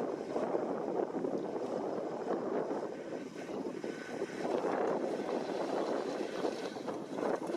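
New Holland T7.290 tractor working a KUHN hay tedder in the field: a steady mechanical rumble of engine and machinery that dips slightly a few seconds in and then swells again.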